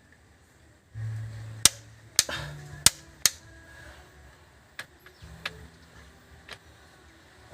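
Sharp metallic knocks and clicks of hand tools and parts being handled during engine work. Four loud strikes come close together in the first half, then a few fainter clicks, over a low hum.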